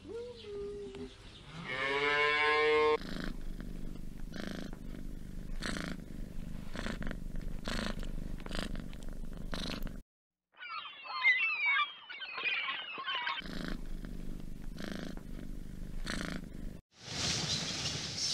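A cow lows once, then soft, irregular crunching of cattle chewing hay; about 10 s in, gulls call in a flock for a few seconds; the crunching comes back, and a steady high hiss begins near the end.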